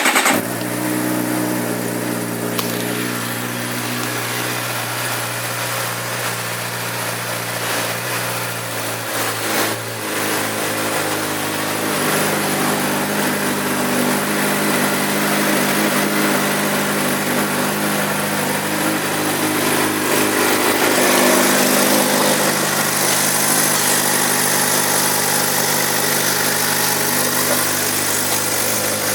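Stock 2012 Suzuki GSX-R600 inline-four engine idling steadily just after being started. The idle note changes about ten seconds in, then runs a little louder.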